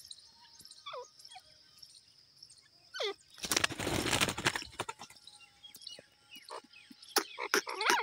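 Short falling bird chirps, broken by a loud burst of rustling noise a few seconds in, then a run of sharp clicks and more chirps near the end, over a faint steady high-pitched hum.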